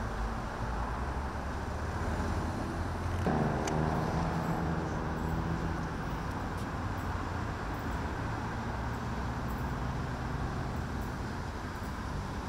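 Adelaide Metro 3000-class diesel railcar approaching, a steady low engine rumble; a pitched engine note comes in about three seconds in and fades a few seconds later.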